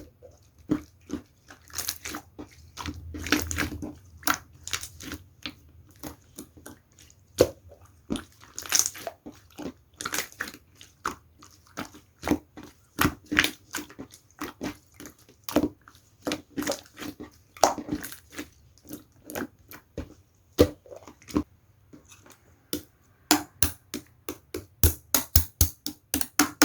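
Slime being squeezed and stretched by hand, making a fast, irregular run of wet clicks and pops that come thicker near the end.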